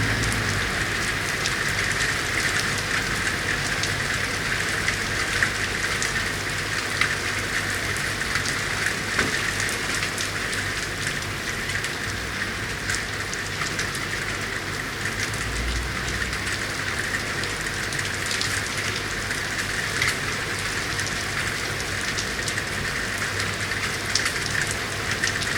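Steady rain falling on city surfaces: an even hiss with many scattered sharper drop ticks.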